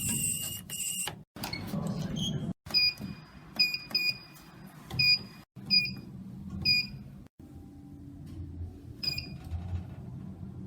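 Elevator electronic beeps across quick-cut clips: a held beep at the start, then a run of about seven short, high beeps and one more near the end, over a low steady hum.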